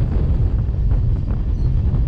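Wind buffeting the microphone over the low rumble of a passenger train's coaches running along the track, heard from an open coach door.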